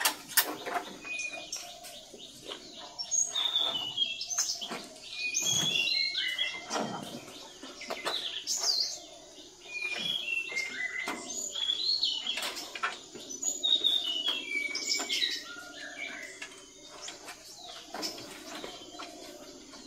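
Birds chirping in many short, repeated calls, some sliding up or down in pitch, with occasional sharp knocks in between.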